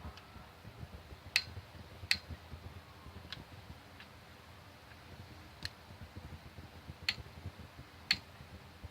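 Click-type torque wrench clicking over at its set torque of 39 on the connecting rod bolts: about six sharp single clicks at uneven intervals, with a few fainter ones. Each click means the bolt has held its torque and has not loosened.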